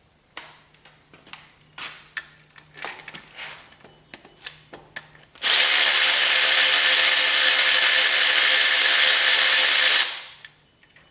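Several light clicks and knocks of metal engine parts being handled, then a handheld power tool runs steadily for about four and a half seconds and stops.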